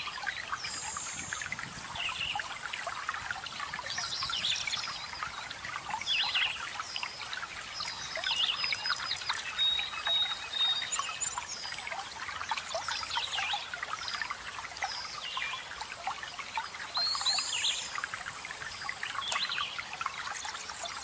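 Running water trickling and splashing steadily under many small forest birds chirping and trilling, with short high whistles and rapid trills throughout.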